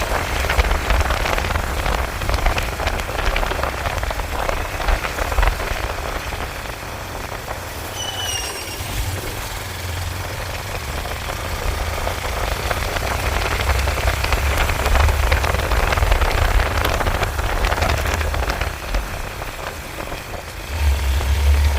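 Rain pattering and crackling on the microphone during a motorcycle ride in the rain, over a heavy, uneven low rumble. A brief high-pitched tone sounds once, about eight seconds in.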